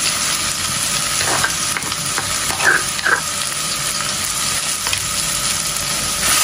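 Pounded garlic, shallots, chillies, turmeric and lemongrass sizzling steadily in a little hot oil in a pot. A few brief taps and scrapes of a plastic spatula are heard as more of the paste is scooped in.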